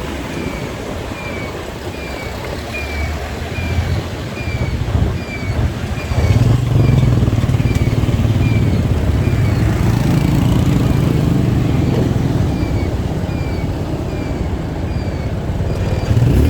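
Motorcycle engine running while riding in traffic, louder from about six seconds in, with a short falling chirp repeating a little over once a second.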